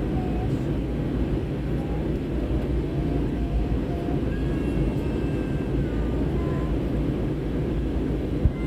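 Steady airliner cabin noise in flight: the low rumble of jet engines and airflow, with faint voices drifting over it and a single sharp click near the end.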